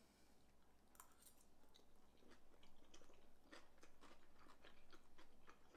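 Faint chewing of a mouthful of crunchy sauerkraut salad, a run of small irregular crunches.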